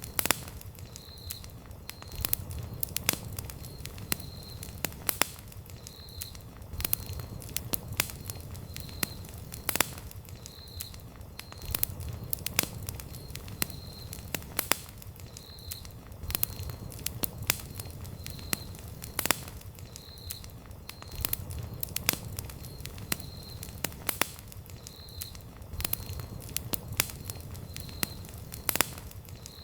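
Wood campfire crackling: irregular sharp pops and snaps over a low, steady rush of burning flames. A faint high chirping recurs in the background.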